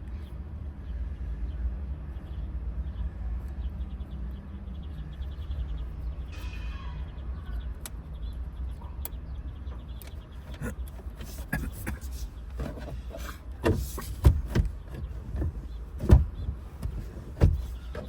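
Small metal clicks and taps from hand work on an automotive lock cylinder and its wafers, building to a run of sharp knocks in the last several seconds, over a steady low hum.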